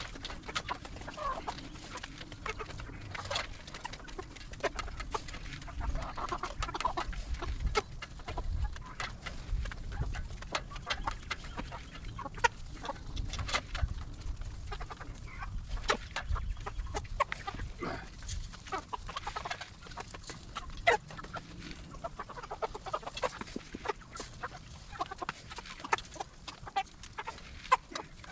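A flock of meat chickens clucking as they crowd the feeders and eat in a frenzy, with many short sharp taps and clicks throughout.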